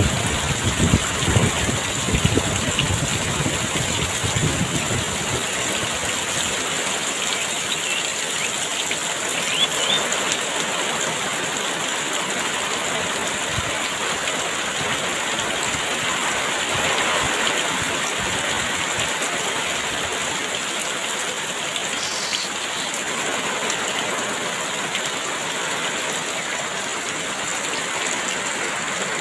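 Heavy rain falling steadily in an even hiss. Gusts of wind rumble low in the first few seconds, then die away.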